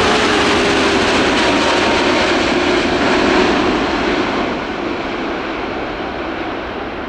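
Jet airliner's engines roaring close by, with a faint whine sliding slowly lower; the roar fades from about four seconds in as the aircraft moves away.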